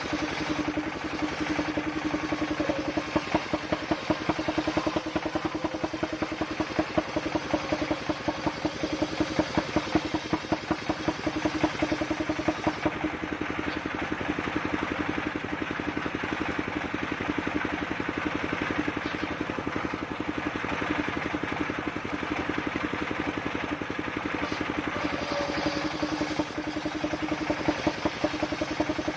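Engine driving a portable circular sawmill, running steadily at constant speed with a rapid even firing beat and a steady hum.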